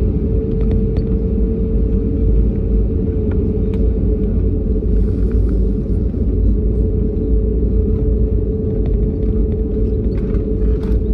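Jet airliner's engines running: a steady low rumble with a constant hum, and a few faint ticks scattered through it.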